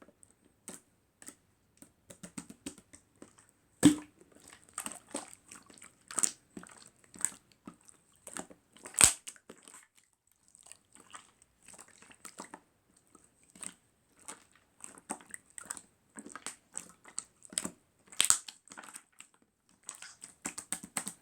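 Clear slime made from aloe soothing gel being squished and worked by hand: irregular sticky clicks and small pops, with a few louder pops about 4, 9 and 18 seconds in.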